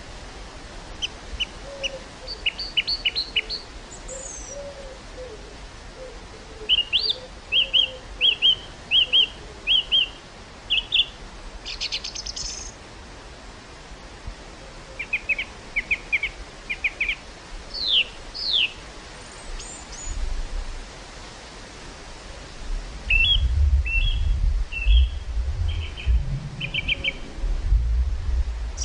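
Small birds chirping and singing in short, quickly repeated phrases. About two-thirds of the way through, gusts of wind start buffeting the microphone as a low rumble.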